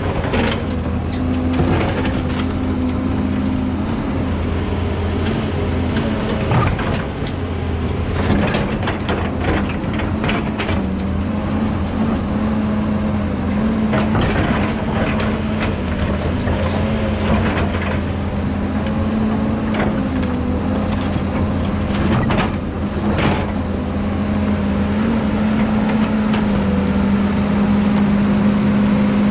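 Kobelco 210 hydraulic excavator's diesel engine running steadily under load, its pitch shifting slightly as the hydraulics work, while it digs around and cuts a tree's roots. Frequent short knocks and cracks come through the engine sound.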